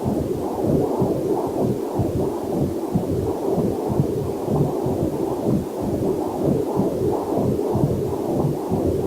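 Heartbeat picked up by a fetal Doppler heart monitor: a steady, rapid rhythm of whooshing pulses. A faint waterfall hiss sits underneath.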